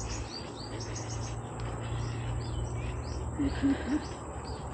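Birds chirping in the trees: many short, high calls in quick succession, over a low steady rumble. Two or three short low notes sound about three and a half seconds in.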